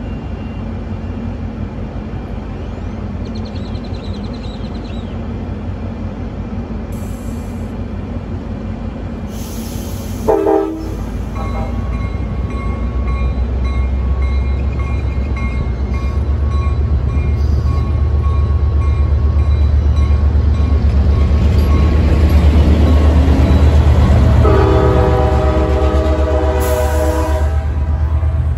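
Commuter train's diesel locomotive running steadily at the platform, then a short horn toot about ten seconds in. The engine then grows louder as the train pulls out, and a long horn blast sounds near the end.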